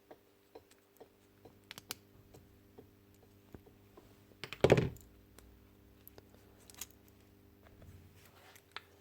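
Scattered light clicks from parts and tools being handled, with one louder clunk about halfway through, over a faint steady hum.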